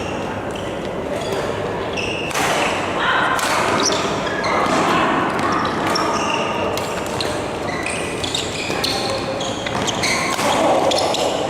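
Badminton doubles rally in a large hall: repeated sharp racket strikes on the shuttlecock and short squeaks of shoes on the court, with voices in the background.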